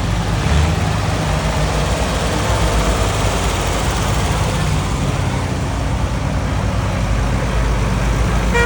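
Tractor engines running steadily as tractors drive past on the road, a continuous low rumble.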